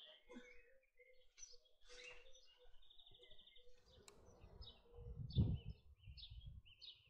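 Garden birds chirping and singing, with a run of short repeated high notes in the second half. A low rumble swells and fades around five to six seconds in and is briefly the loudest sound.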